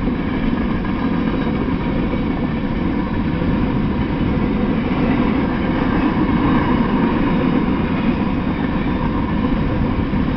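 Freight train of open-top hopper cars rolling past on the rails, a steady rumble of wheels and car bodies that holds even throughout.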